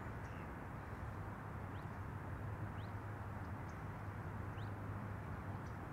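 Quiet background of steady low hum and hiss, with three faint, brief high chirps from a small bird spread through it.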